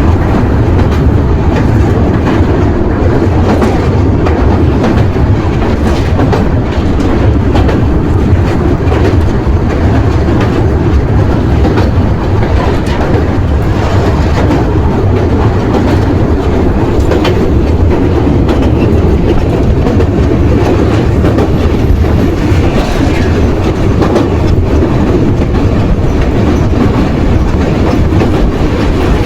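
Amrit Bharat Express train in motion: a loud, steady rumble of the coaches, with the wheels clicking over the rail joints throughout.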